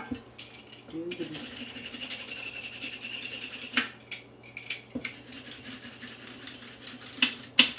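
Vegetable peeler scraping the skin off a carrot: long rasping strokes broken by a few sharp clicks, over a steady low hum.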